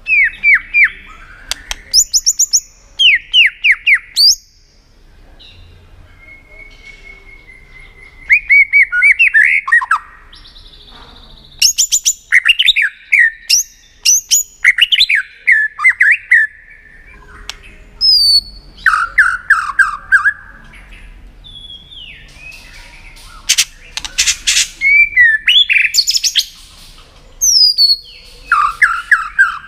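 White-rumped shama singing in short bursts of fast, falling whistled notes, with a few sharp clicks a little past the middle.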